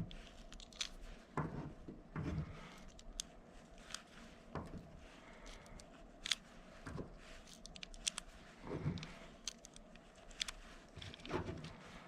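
Faint, scattered clicks and rattles of .22 LR cartridges being handled and pressed one at a time into a Glock 44 magazine.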